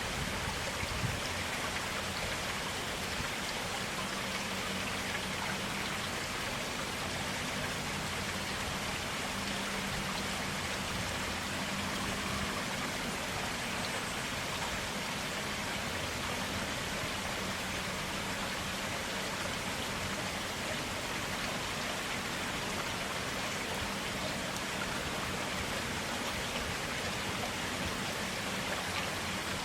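A clear stream of running water, flowing steadily with an even, unbroken sound.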